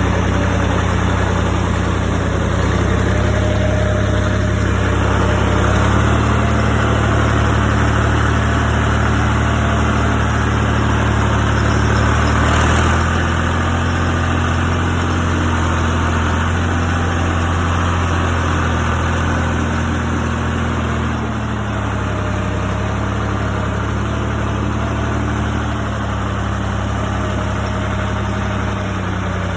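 Tractor engine running steadily near idle. Its pitch rises slightly a few seconds in and settles back down about two-thirds of the way through.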